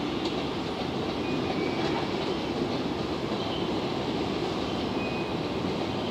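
An EF65 electric locomotive hauling Chiki flat wagons loaded with long rails, rolling slowly through yard points. It makes a steady rumble with faint clicks and a few short, thin wheel squeals.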